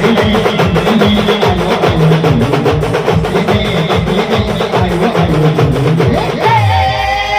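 Band music with a fast, steady drumbeat; near the end a sliding melodic line comes in over the drums.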